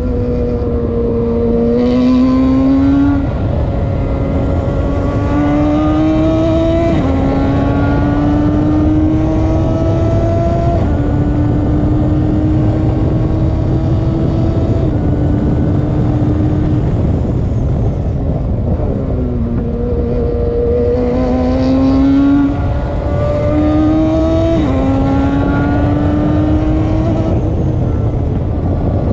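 Radical race car engine at high revs on track, its pitch climbing and stepping at each gear change, falling away about two-thirds through as the car slows, then climbing through the gears again.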